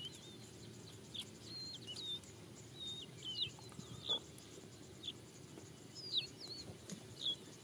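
Birds calling with short, thin whistled chirps, some with a quick up-and-down hook, about one every second.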